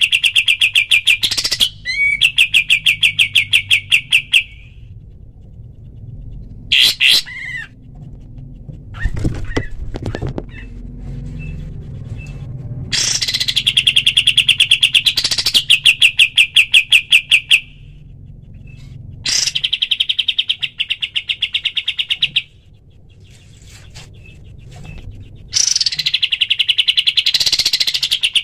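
A kapas tembak songbird singing its rapid-fire 'tembak' song: fast runs of about ten identical chirping notes a second, each run a few seconds long, often opening with a quick downward sweep, broken by pauses of a few seconds.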